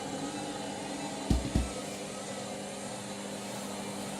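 Candy washing machine's drum motor running with a steady hum during the load-distribution stage before the spin. Two dull low thumps come close together about a second and a half in.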